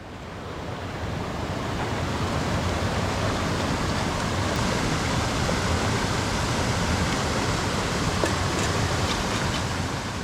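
Mountain stream rushing, a steady even wash of water noise that fades in over the first couple of seconds.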